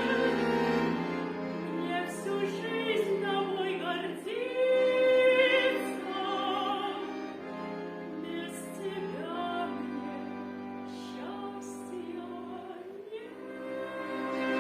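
A solo female voice singing a song with vibrato over a steady instrumental accompaniment.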